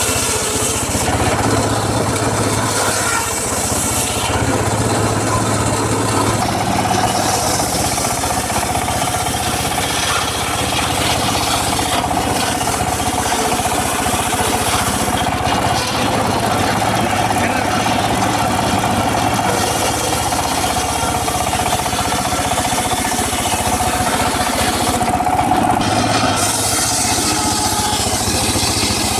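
Engine-driven circular saw running steadily while cutting teak, with a steady whine from the blade from about six seconds in until a few seconds before the end.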